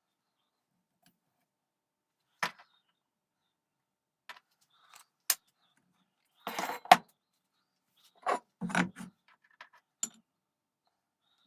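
Scattered metallic clinks and knocks of small metal parts and hand tools being handled and set down on a workbench, in short separate bursts with silence between; the sharpest click comes about seven seconds in.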